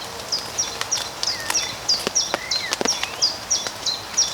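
A small bird singing a fast, steady run of short, high chirps, about three a second, over a steady hiss of rain. A few sharp clicks are scattered among the chirps.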